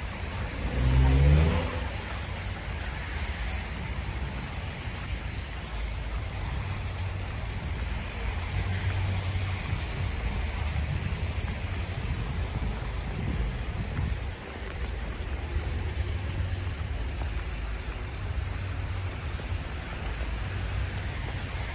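City street traffic with a steady low rumble. About a second in, a vehicle's engine revs up briefly, rising in pitch; this is the loudest moment.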